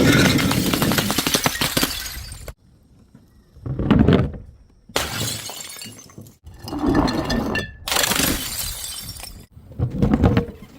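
Glass bottles smashing and shattering, one break after another, about six in quick succession, each starting and stopping abruptly.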